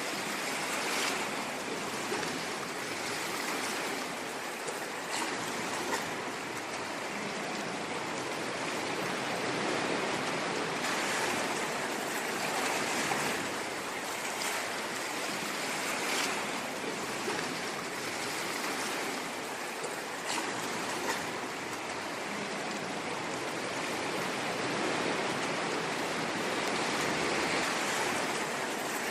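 Ocean waves washing on the shore, a continuous rushing of surf that swells and eases gently, with small splashes now and then.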